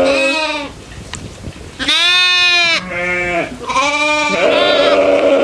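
Goats bleating, four or five loud calls one after another, the longest lasting about a second.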